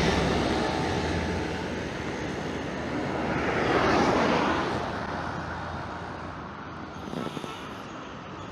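Road traffic noise: a motor vehicle passes close by, its noise swelling to a peak about four seconds in and then fading.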